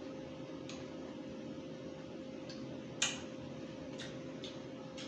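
Scattered sharp mouth clicks and smacks from a man chewing food, the loudest about three seconds in, over a steady low hum.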